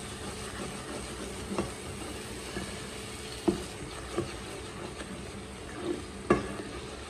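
Thick masala sizzling in a nonstick pot as a spatula stirs it, with a few sharp knocks of the spatula against the pan. It is fried down to the point where the oil has separated and risen on top.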